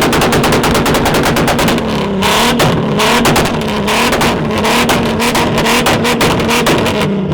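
Two car engines revved hard together and held high near the limiter, with rapid crackling and popping from the exhausts. One of them is a Mk4 Toyota Supra.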